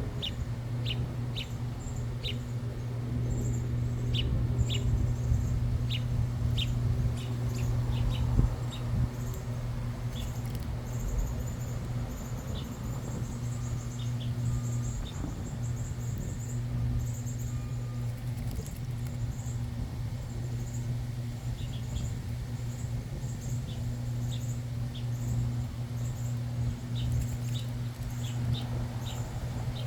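Backyard birds chirping: short, high single notes in scattered runs, clustered near the start and near the end. A steady low hum runs underneath.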